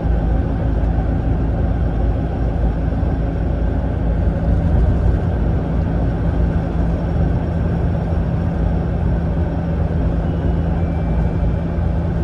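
Steady drone of a Mitsubishi Fuso Aero Ace coach's diesel engine and road noise inside the cabin while it cruises.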